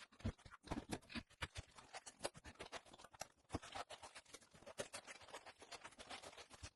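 Faint, rapid, irregular clicks and scuffs of a surface being scrubbed and wiped by hand with a cleaning cloth.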